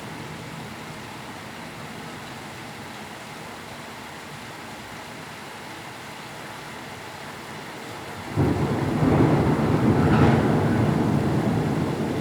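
Steady heavy rain, then a loud rumble of thunder breaks in suddenly about eight seconds in and slowly fades.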